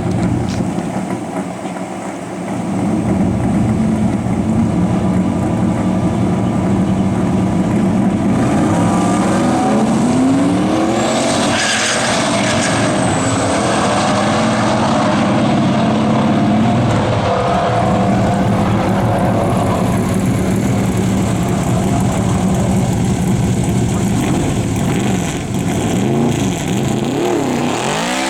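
Turbocharged LS V8 of a 1963 Chevy II Nova running, its exhaust note rising and falling in pitch as it revs. A high thin whistle sounds for about two seconds near the middle.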